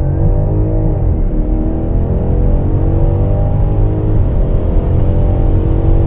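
BMW X5 M50i's twin-turbo V8 at full-throttle acceleration. The engine note climbs in pitch and drops back at upshifts about a second in and again about four seconds in.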